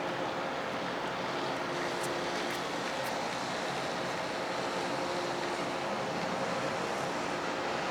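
Steady ship-engine drone in a harbour: a constant hum holding two tones over an even rush of noise, with a few faint ticks.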